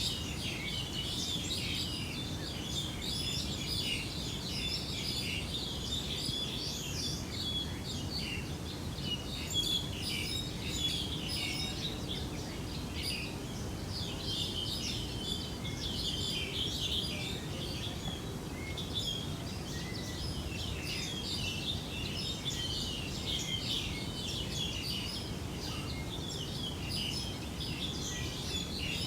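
Many small birds chirping continually in quick, overlapping calls, over a steady low background noise.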